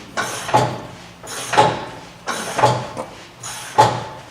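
Repeated sliding, scraping strokes, about one a second, each a short noisy swell.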